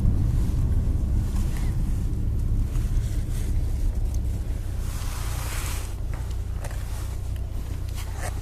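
Car engine idling, heard from inside the cabin as a steady low rumble while stopped at a red light, with a brief rush of noise about five seconds in.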